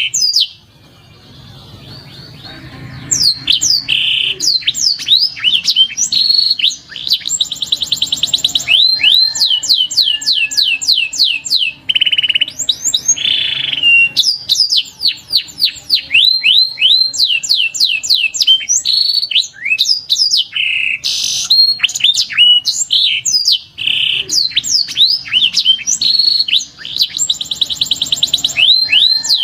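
Domestic canary song: long runs of rapid, evenly repeated trill notes and gliding whistles, one rolled phrase after another, with a brief lull about a second in.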